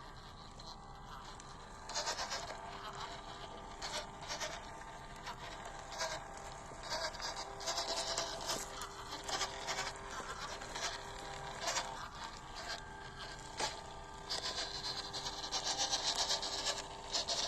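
WPL C24 1/16-scale RC crawler trucks driving over rough ground: a steady faint whine of the electric drivetrain under irregular scraping and crunching of tyres on dirt and rock. The crunching starts about two seconds in and is busiest near the end.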